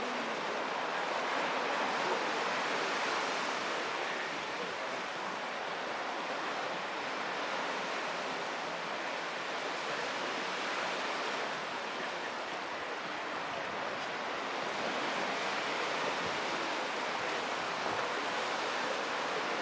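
Black Sea surf washing onto the shore, a steady rush of water that swells and eases slowly.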